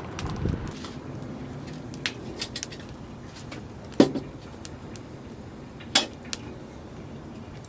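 Cookware and utensils being handled: a series of sharp clinks and knocks, the loudest about four seconds in and another about six seconds in.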